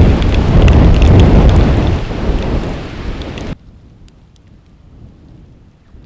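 Loud storm noise: a deep rumbling rush of wind and rain with scattered crackles, cutting off abruptly about three and a half seconds in, leaving only faint crackles.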